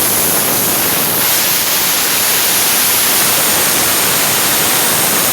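Loud, steady hiss of compressed air rushing out of an air compressor.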